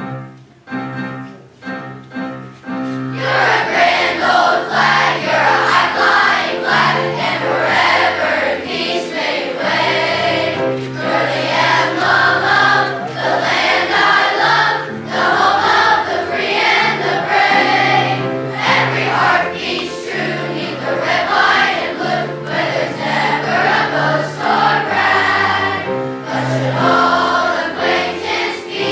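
Sixth-grade school choir singing a song with instrumental accompaniment, entering after a short instrumental introduction of about three seconds.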